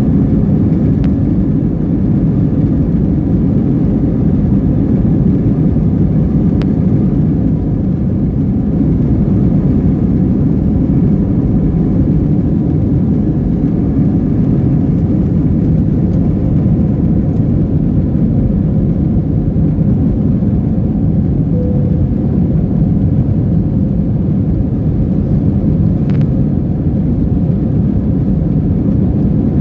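Steady low rumble of an Airbus A321-200 airliner heard from inside the cabin: engine and airflow noise at an even level, neither rising nor falling.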